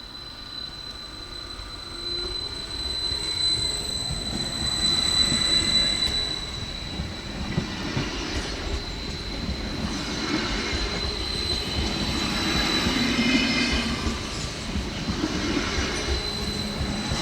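Local passenger train passing over a level crossing, its wheels rumbling on the rails with a steady high-pitched squeal. Further squealing swells and fades through the middle.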